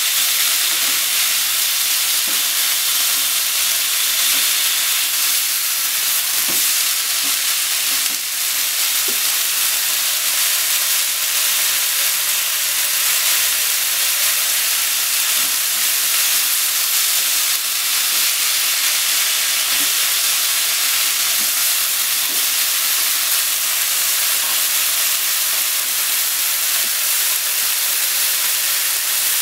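Sliced pork, onion and green onion sizzling steadily in oil in a frying pan, with the faint scrape and tap of chopsticks stirring them now and then.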